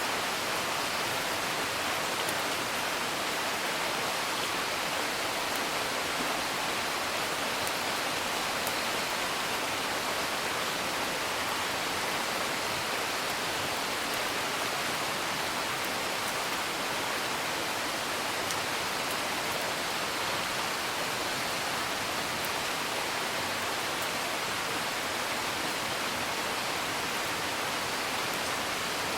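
Steady rain heard from indoors, an even hiss, with a few faint scattered crackles of a wood fire.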